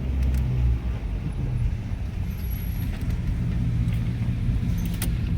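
Small SUV's engine running at low speed, a steady low rumble and hum, with a few light clicks near the end.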